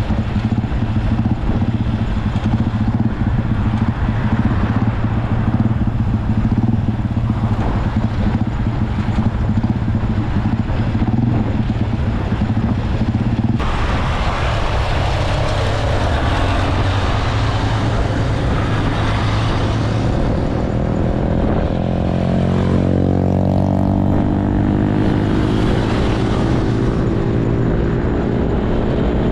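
Motorcycle engine running while riding, with wind rush. The sound changes abruptly about halfway through, and a few seconds later the engine note climbs steadily as the bike accelerates, then holds at the higher pitch.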